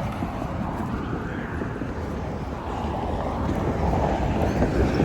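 Wind buffeting the microphone: a steady low rumble that grows a little louder near the end.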